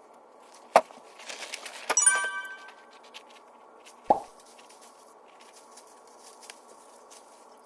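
Edited sound effects: a short pop under a second in, a brief bright chime about two seconds in, and another pop just after four seconds, over a steady faint hiss.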